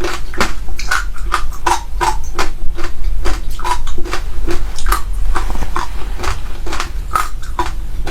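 Close-miked chewing of passion fruit seeds: a rapid run of crisp crunches as the seeds are bitten and crushed, about four a second.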